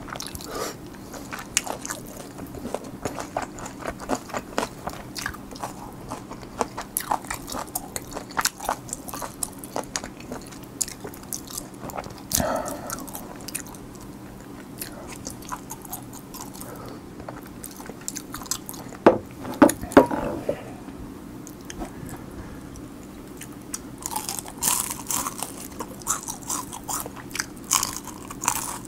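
Close-miked eating sounds: steady wet chewing with small clicks, and a few louder mouthfuls around the middle. Near the end come dense, crisp crunches as the coating of a honey butter garlic fried chicken piece is bitten and chewed.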